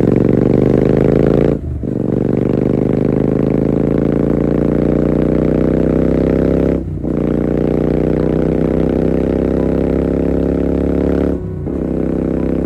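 Royal Enfield GT650's 648 cc parallel-twin engine through a Red Rooster aftermarket exhaust, accelerating hard up through the gears. The exhaust note climbs steadily in pitch, drops out briefly for three upshifts, and climbs again after each.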